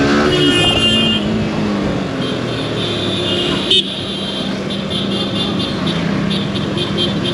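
Yamaha R15 V4's 155 cc single-cylinder engine running steadily at low revs in dense traffic. A horn sounds briefly about half a second in, and a single sharp click comes about four seconds in.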